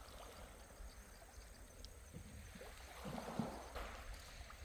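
Faint outdoor background noise: a steady low rumble with an even hiss. A few brief, faint voice sounds come about three seconds in.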